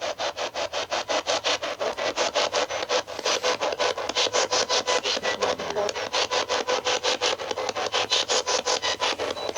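Spirit box (radio-sweep ghost-hunting device) scanning through radio stations, a rapid steady chopping of static at about eight pulses a second.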